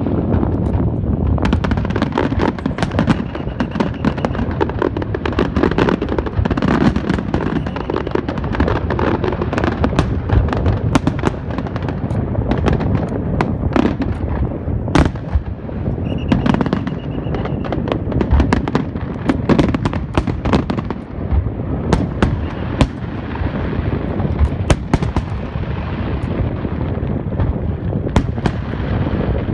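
Fireworks display going off nonstop: many sharp cracks and bangs in quick succession over a continuous low rumble.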